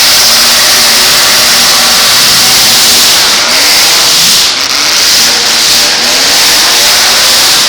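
Engines of several full-size demolition derby cars revving hard at once. They make a loud, unbroken din, with engine pitches rising and falling over each other.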